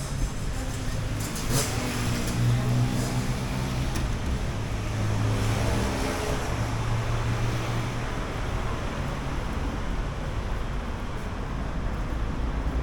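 City street traffic: motor vehicle engines running and passing, with a steady low hum that swells in the middle.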